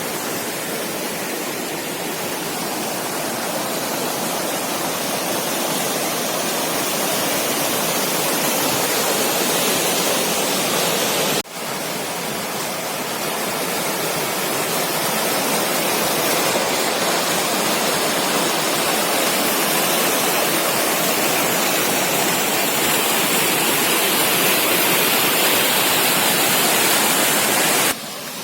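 Small waterfall rushing in a steady wash of falling water, with a brief break about a third of the way in.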